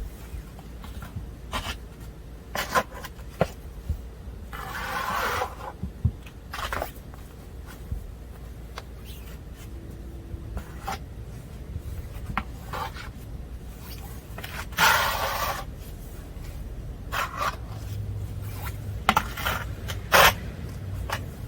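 Snow being scraped and crunched: scattered short crunches and clicks, with two longer scrapes of about a second each, one about five seconds in and one about fifteen seconds in.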